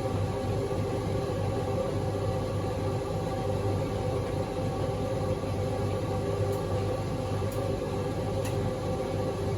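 Servis M2110 tumble dryer running with a steady hum. Three faint ticks come about a second apart in the second half.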